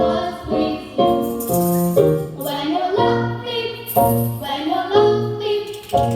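A vocal ensemble singing with piano accompaniment: held sung notes over piano chords.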